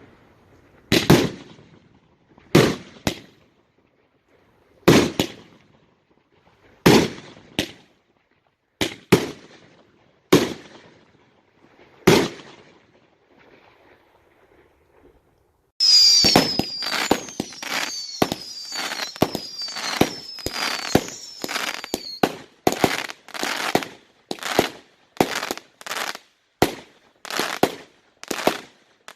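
Consumer fireworks going off. Single shells burst with loud bangs, often in close pairs, every second or two for about twelve seconds. After a short pause comes a fast barrage of bangs, with repeated falling whistles over the first several seconds.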